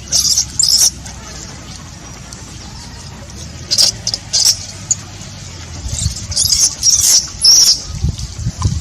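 High-pitched squeaks from a macaque in short bursts: a pair at the start, two more about four seconds in, and a quick cluster near the end.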